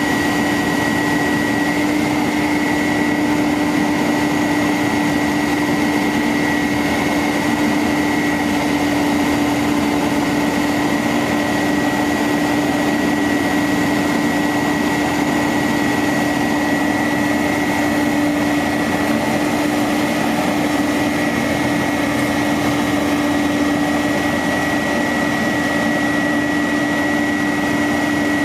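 Bucket truck's engine running steadily with no change in speed, a constant high whine over a steady low hum.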